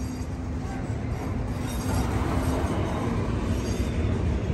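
Double-stack container freight train rolling along the tracks, a steady low rumble that grows louder about two seconds in.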